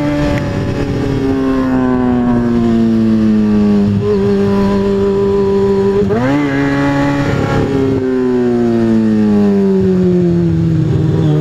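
2003 Kawasaki ZX-6R 636 inline-four engine running on the road. Its revs fall slowly, rise sharply about six seconds in, then fall slowly again.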